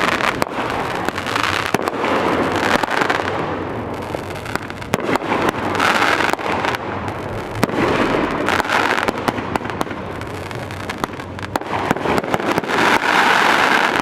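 Fireworks display: a steady run of sharp bangs and pops over continuous dense crackling that swells and fades in waves.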